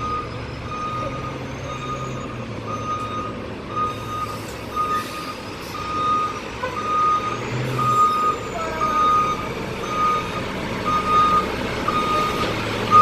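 Garbage truck backing up: its reversing alarm beeping steadily at an even pace, about three beeps every two seconds, over the low hum of the truck's engine.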